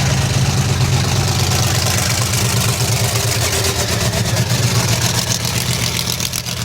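Bigfoot monster truck engine running steadily at idle, a loud, even low engine note with no revving.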